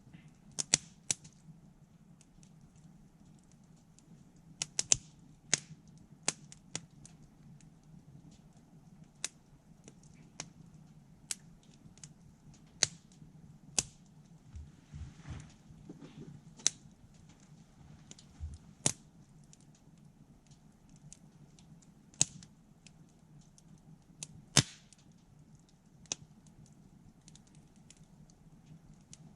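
Campfire of burning wood crackling, with irregularly spaced sharp pops, a few of them much louder than the rest, over a low steady hum.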